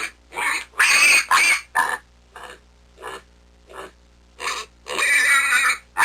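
Pig grunting in a run of short calls, then a long, loud, higher-pitched squeal near the end.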